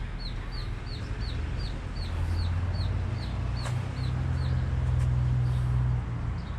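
A bird gives a quick run of about a dozen short, high, falling chirps, about four a second, which stop about four and a half seconds in. Under them runs a steady low hum that grows louder about two seconds in.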